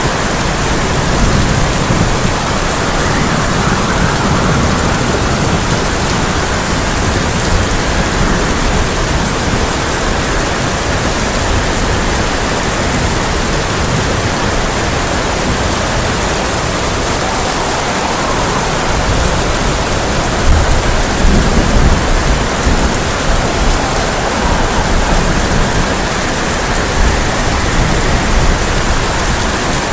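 Heavy rain drumming steadily on a tin (sheet-metal) roof, with low rolling thunder rumbling near the start and again, loudest, about two-thirds of the way through.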